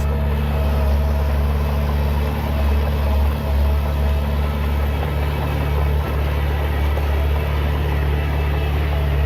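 Heavy diesel engine of an earthmoving machine running steadily, its sound deep and even throughout.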